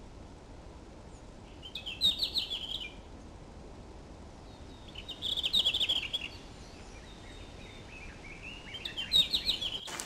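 A songbird singing three short phrases of rapid, high chirping notes a few seconds apart, over a faint steady background hiss.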